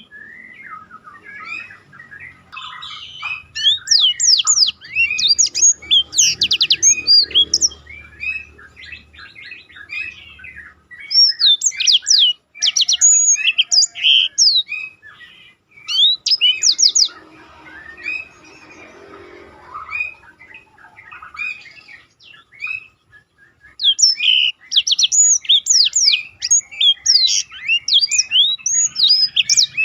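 Black-throated canary (blackthroat) singing a fast song of chirps, trills and quick falling whistles, in long bursts broken by short pauses.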